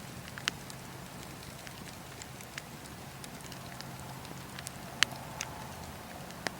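Wood fire burning, with a steady hiss and scattered sharp crackles and pops, the loudest pop about five seconds in.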